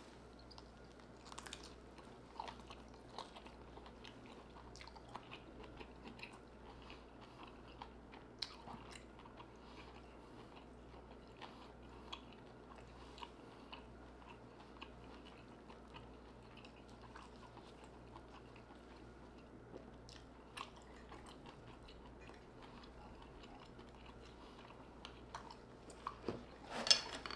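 Close-up mouth sounds of someone biting and chewing lobster tail meat coated in garlic butter sauce: soft wet smacks and clicks scattered throughout, with a louder burst near the end.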